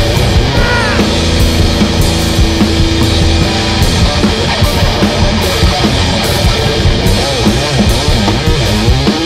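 Live garage-punk band playing: distorted electric guitar over a full drum kit, loud and steady, with guitar bends near the start and again near the end.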